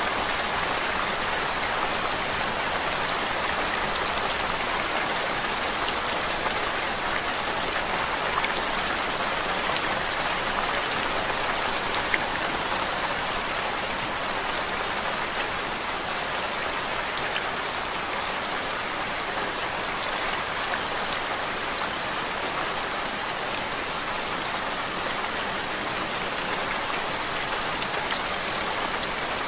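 Steady rain on a hard surface: an even hiss of dense falling drops with fine, scattered patter.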